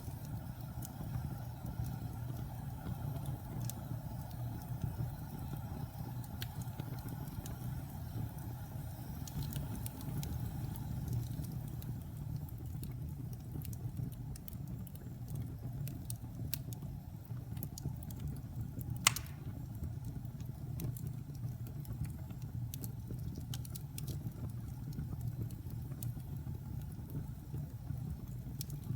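Wood fire burning in a fireplace: a steady low rumble of flames with scattered small crackles, and one sharp pop about two-thirds of the way through.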